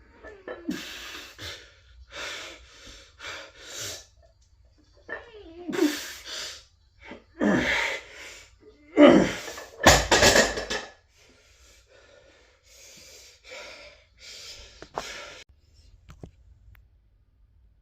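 A man breathing hard in a string of forceful exhales and short grunts, each grunt falling in pitch, the kind of effort breathing heard while straining through reps of a heavy lift; the strongest come about nine to eleven seconds in, and the breaths are softer near the end.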